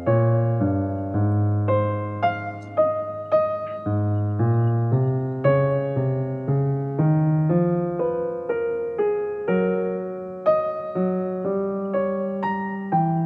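Soft background piano music, a gentle melody of struck notes each fading before the next.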